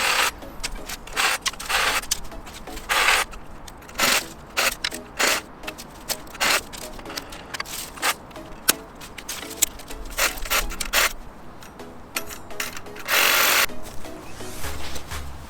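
Cordless reciprocating saw cutting thin branches in short irregular bursts, with sharp clicks and cracks of the wood between cuts, over quiet background music.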